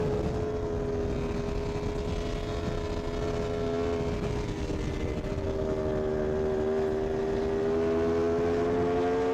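Sport motorcycle engine held at high revs at a steady speed, its note dipping slightly midway and rising a little near the end.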